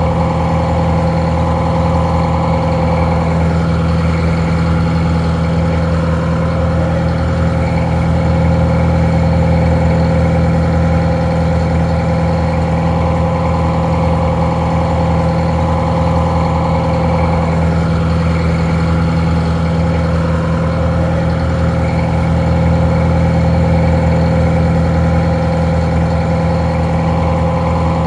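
Detroit Diesel 4-71 inline four-cylinder two-stroke diesel idling steadily, a little muffled.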